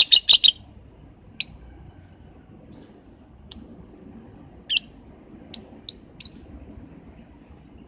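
Lovebird giving short, sharp, high chirps: a quick run of about four at the start, then single chirps every second or so, a few close together near the end.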